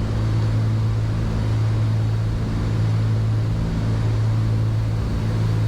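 Cockpit drone of a Cessna 310Q's twin six-cylinder Continental engines and propellers at steady approach power: a strong, even low hum with a few fainter overtones above it, holding level throughout.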